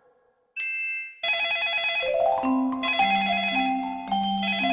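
Electronic telephone ringtone: a short high beep about half a second in, then a warbling trill and a bright electronic melody over an alternating two-note bass.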